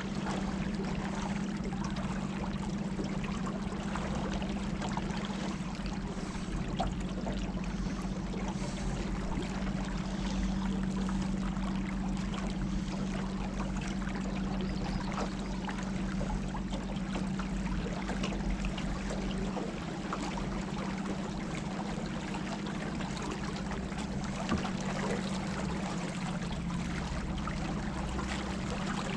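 River water rushing and trickling against a small boat as it moves downstream, with a steady low hum underneath.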